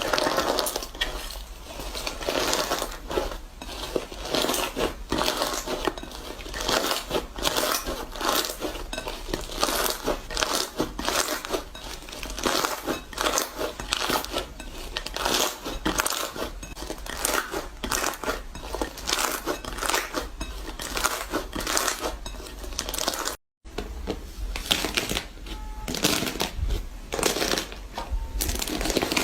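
Dense, crisp crackling and crunching of a material being pressed and broken up, many small cracks in quick succession. About 23 seconds in the sound drops out for a moment before the crackling resumes.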